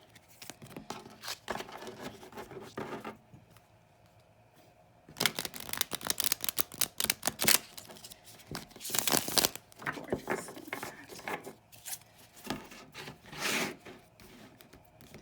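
A deck of oracle cards being riffle shuffled: a long run of rapid card-edge flicking about five seconds in and a shorter one near nine seconds, with softer sliding and tapping of the cards between.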